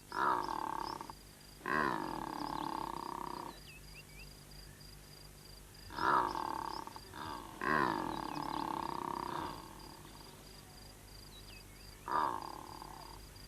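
Secretary birds giving their courtship groaning and growling calls: about five drawn-out, even-pitched calls of one to two seconds each, separated by pauses.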